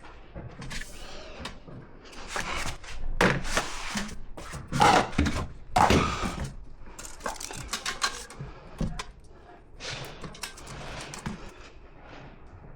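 Irregular clicks, knocks and scraping from hand work with tools and building materials, loudest in a cluster from about two to seven seconds in.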